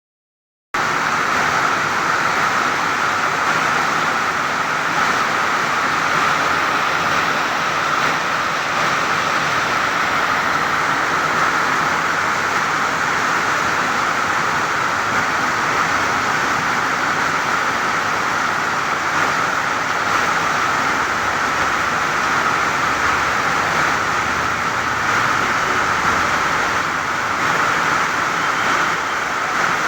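Heavy rain falling as a steady, dense hiss, starting just under a second in.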